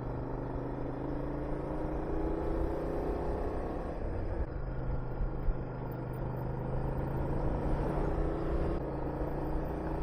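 Honda VTR250's V-twin engine pulling under acceleration, its pitch climbing, dropping at a break about four seconds in as in an upshift, then climbing again, over low wind rumble on the microphone.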